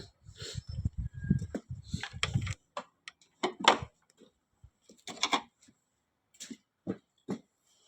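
Irregular low thuds or rumbling for about the first two and a half seconds, stopping abruptly, followed by scattered sharp clicks and knocks.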